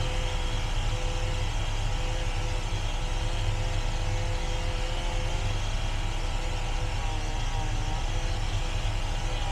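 Engine running steadily with a low rumble and a held pitch that wavers a little near the end.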